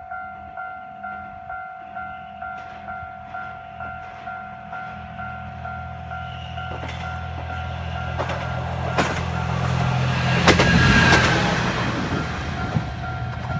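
Japanese level crossing alarm ringing its steady two-tone ding about twice a second. A single-car train rumbles up and passes through the crossing, loudest about ten to eleven seconds in, with a few sharp wheel clacks over the rail joints.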